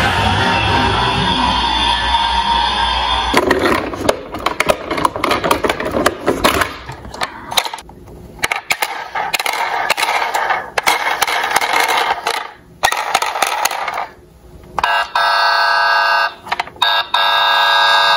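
Music for the first few seconds, then a run of quick clicks, rattles and scrapes of small diecast toy cars rolling and crashing down a slope, then a ringing, alarm-like tone for the last few seconds.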